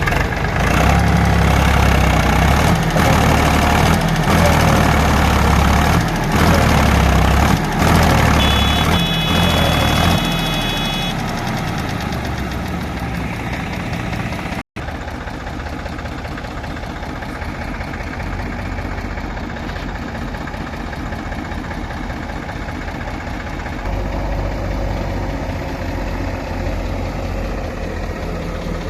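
JCB 3DX Super backhoe loader's diesel engine working hard under load for about the first ten seconds, then easing back to a lower, steadier run. The sound cuts out for an instant about halfway through.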